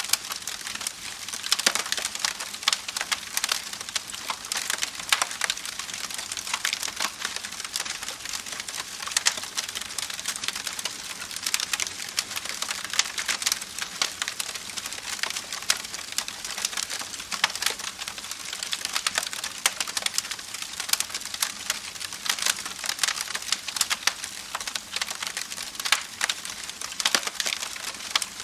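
Wood campfire crackling: a dense, irregular stream of snaps and pops over a soft steady hiss.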